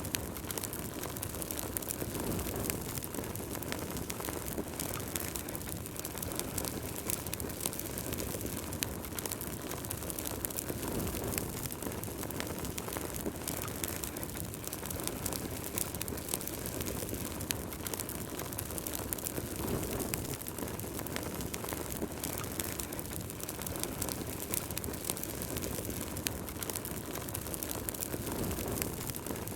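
Wood fire burning in a fireplace: a steady low rush of flames with frequent sharp crackles and pops from the burning wood.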